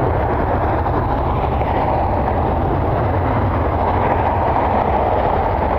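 Steady rumble and rush of jet airliner engines running on the ground, with a faint steady whine and a low rumble of wind on the microphone.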